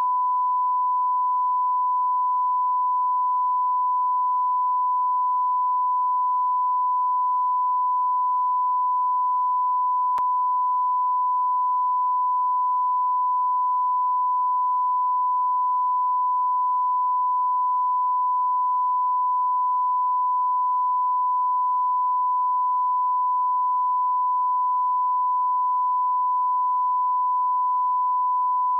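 A continuous, steady, high-pitched electronic sine tone, one pure pitch held unbroken at a constant level, like a long censor bleep or test tone.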